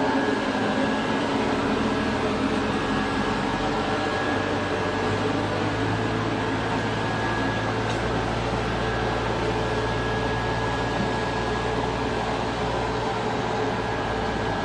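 Sawdust flash dryer plant running: a steady rush of fan and motor noise with a thin steady whine. A low hum joins it about five seconds in.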